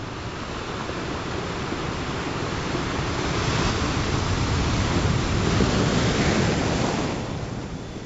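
Ocean surf: a wave builds over a few seconds, breaks and surges loudly, then falls away near the end.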